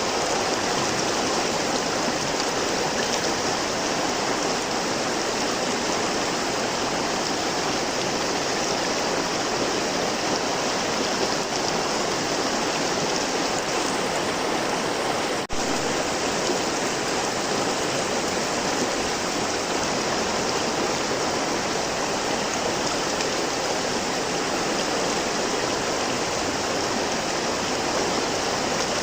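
River water flowing steadily in an even, continuous rush, with a momentary dip about halfway through.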